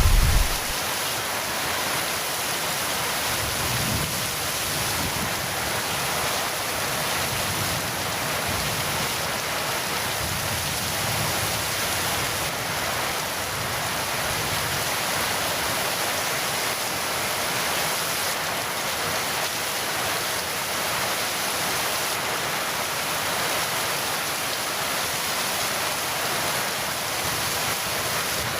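Heavy rain falling steadily, with the last of a low thunder rumble fading out in the first second.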